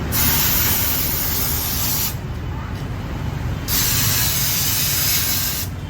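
High-pressure jet washer spraying water onto a motorcycle in two bursts of about two seconds each, with a pause of a second and a half between them, over a steady low hum.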